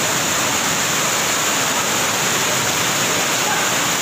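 Floodwater rushing steadily, a continuous even sound of flowing water.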